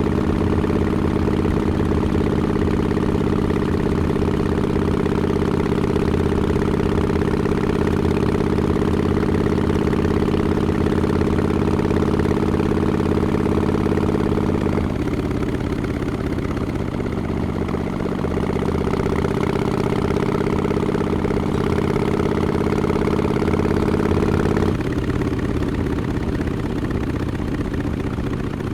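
Exhaust of a Harley-Davidson XL1200X Forty-Eight's air-cooled V-twin through Vance & Hines Short Shots mufflers with quiet baffles, running at steady revs. The revs drop about halfway through and again near the end, and it gets a little quieter after the second drop.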